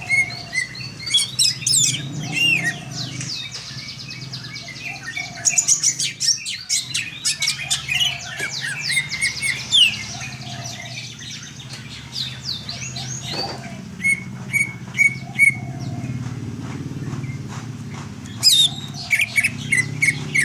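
Cucak ijo (green leafbird) singing in loud phrases of rapid, sharply falling whistles and chirps, separated by short pauses; about two thirds of the way through it gives a run of four short, evenly spaced notes. A steady low hum runs underneath.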